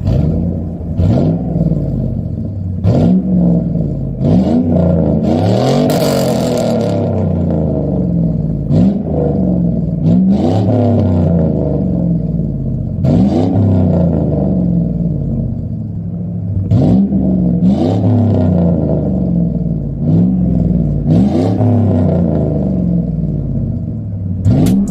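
Chevrolet Silverado pickup's engine revving, its note climbing and dropping back over and over, with sharp clicks and knocks in between.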